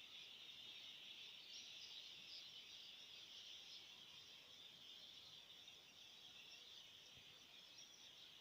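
Near silence, with a faint, steady, high-pitched hiss.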